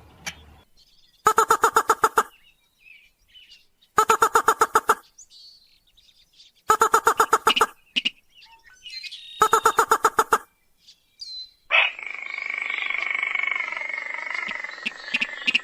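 Lure recording of a rail's call, the mandar padi sintar (slaty-breasted rail): four bursts of rapid, harsh repeated notes, each about a second long and spaced about three seconds apart, with faint chirps between them. About twelve seconds in, a different, steady, buzzy call takes over.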